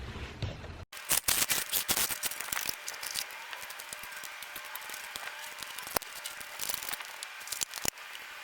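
Irregular clicks and light metallic clatter of hand tools and parts being handled during a brake job, busiest in the first couple of seconds after a cut, with a sharp tick about six seconds in.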